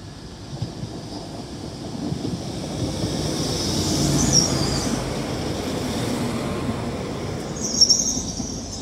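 Class 197 diesel multiple unit running past close by, its wheels rumbling on the rails and growing louder to a peak about four seconds in. A high squeal from the wheels rises briefly at that peak and again near the end.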